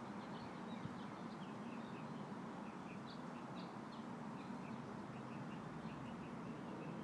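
Small birds chirping in many short, quick calls over a steady background hiss of a light breeze.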